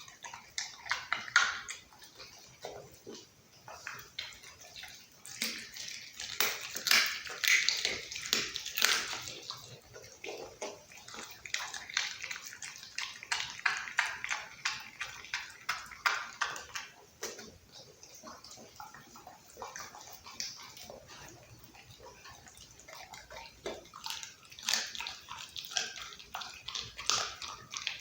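Pit bull chewing raw meat and bones: wet smacking with dense crunching and cracking, in louder spells of a few seconds that ease off and pick up again.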